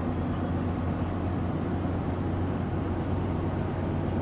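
Steady drone of a truck on the move, heard from inside the cab: a low engine hum under even road noise.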